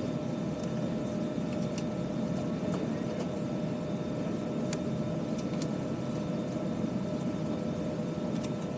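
Steady cabin noise of an Airbus A320 parked at the gate: an even rush of air-conditioning airflow with a constant hum. A few faint clicks sound through it.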